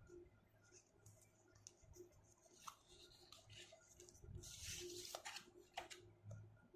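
Near silence with faint scattered clicks and a brief soft rustle about four and a half seconds in, over a low steady hum.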